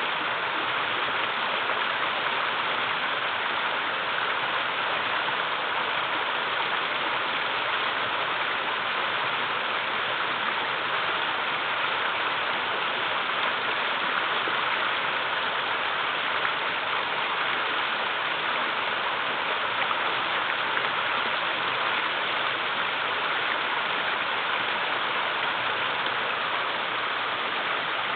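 Mountain river running over small waterfalls, a steady, even rush of water with no breaks. The river is carrying a fairly low flow in the dry season.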